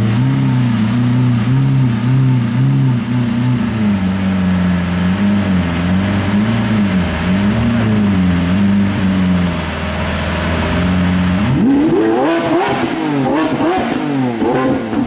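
Lamborghini Aventador Roadster's 6.5-litre V12 with the factory sports exhaust, running at a low speed with its note wavering gently up and down, then free-revved from about eleven seconds in: several quick blips that climb steeply in pitch and fall back.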